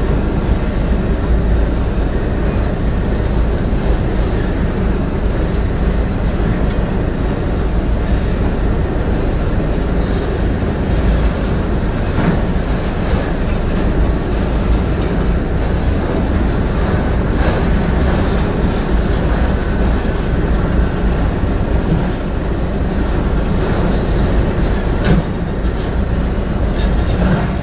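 Freight train cars rolling steadily past: a continuous low rumble of steel wheels on rail, with a few scattered clicks and knocks.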